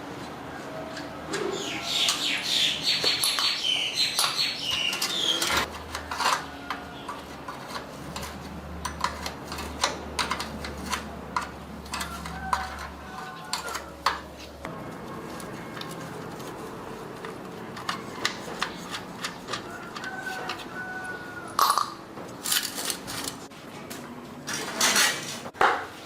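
Metal tools and engine parts clinking and knocking as they are handled, in separate irregular taps. A run of high chirps sounds about two seconds in.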